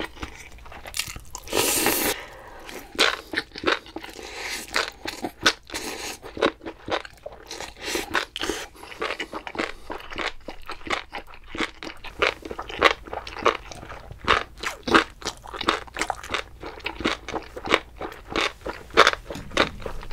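Close-miked chewing and biting of food, mouth noises in a quick run of short wet clicks, with one louder rush of noise about one and a half seconds in.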